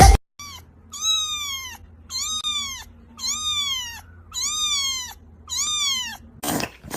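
A cat meowing over and over: five drawn-out meows of nearly a second each, about one a second, each rising and then falling in pitch. A short, sharp noise comes near the end.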